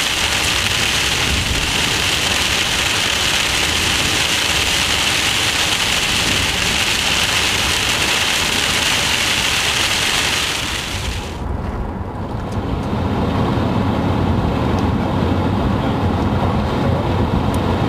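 Heavy rain on a moving car, a loud steady hiss that cuts off suddenly about eleven seconds in, leaving the car's engine and road noise.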